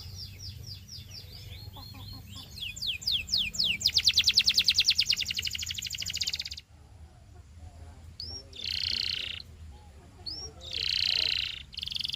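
Canary singing: a run of quick down-slurred whistles, then a loud, fast trill about four seconds in that stops abruptly. Two buzzy rolled notes follow, each opened by a short rising whistle.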